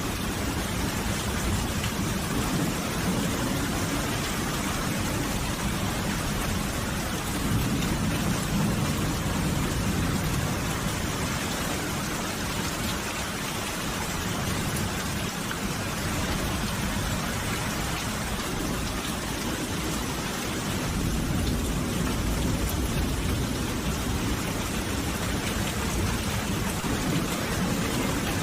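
Steady rain falling, with a low rumble underneath that swells slightly about eight seconds in.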